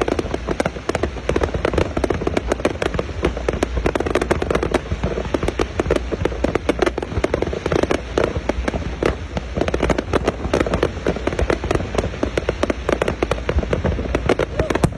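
Aerial fireworks display going off in rapid, overlapping succession: a dense, continuous run of bangs and crackles with no let-up.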